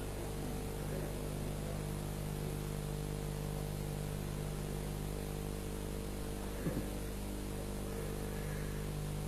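Steady electrical mains hum with a background hiss from the sound system and recording, with no voice.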